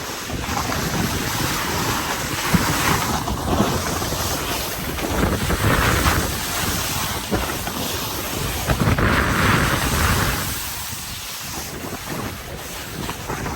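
Wind buffeting the microphone: a loud rushing hiss with a low rumble, swelling twice and easing off near the end.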